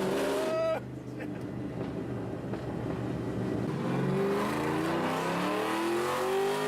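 A 2010 Ford Mustang GT's 4.6-litre V8, straight-piped with long-tube headers and no catalytic converters, accelerating hard. The note dips about a second in, then climbs steadily in pitch as the car pulls through a gear.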